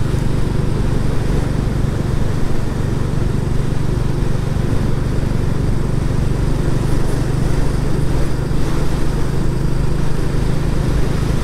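Royal Enfield Classic 350's single-cylinder engine running steadily while the motorcycle is ridden along the road.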